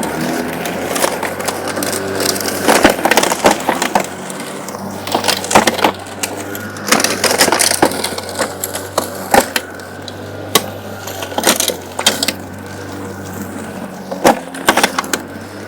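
Battery-powered electric lawn mower running with a steady hum, cutting grass. Frequent sharp, irregular cracks and snaps come from debris struck by the blade.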